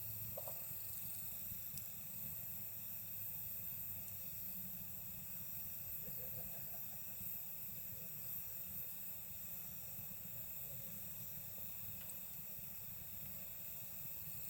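Steady chorus of night insects trilling high-pitched and unbroken, over a low campfire burn with a few faint crackles.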